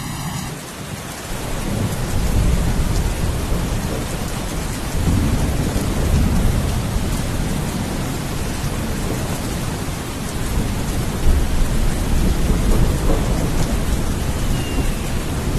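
Steady heavy rain with deep rolling thunder rumbling underneath, swelling up several times.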